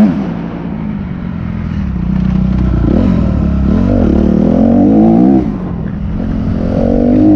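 Motocross bike engine heard on board, rising and falling with the throttle: it drops off at the start, builds back up over the next few seconds, cuts back again about five and a half seconds in, and picks up once more near the end.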